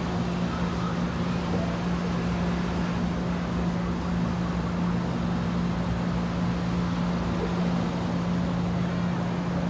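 Steady engine hum holding one low, constant pitch, with an even rushing noise over it.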